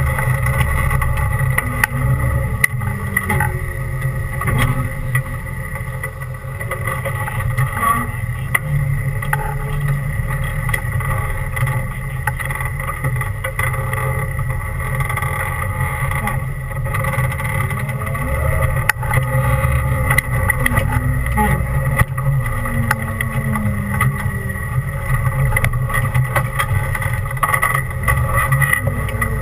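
Off-road 4x4's engine running at low speed as it crawls a rough dirt trail, the revs rising and falling now and then, with scattered knocks and clunks.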